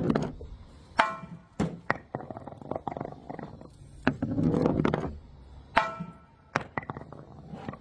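Things being crushed and broken: sharp cracks, two of them trailing a brief ringing like breaking glass, between stretches of crunching and crackling.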